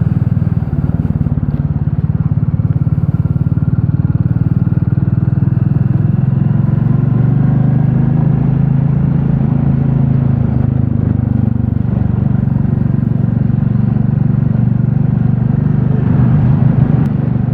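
Royal Enfield Classic 350's single-cylinder engine running steadily under way, a low, even engine note.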